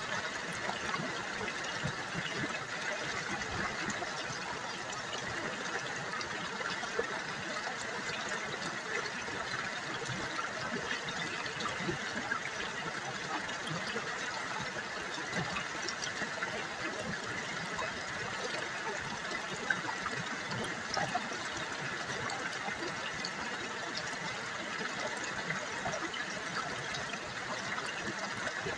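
River water trickling and burbling over stones, steady, with small splashes and drips throughout.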